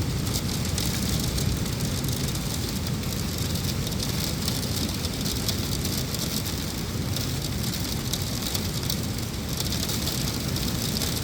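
Heavy monsoon rain driven by strong wind against the windows: a steady rushing noise.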